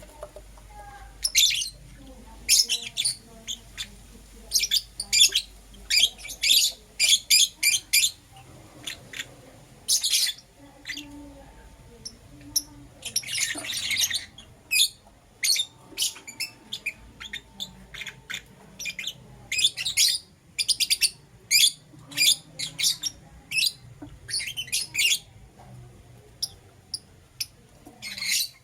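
Lovebirds chirping: rapid, sharp, high-pitched calls in irregular clusters, with a longer run of chatter about halfway through.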